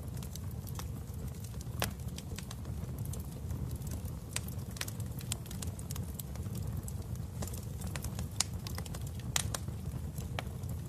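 Wood fire burning in a fireplace: a steady low rumble of flames with irregular sharp crackles and pops, the loudest about two seconds in and again near the end.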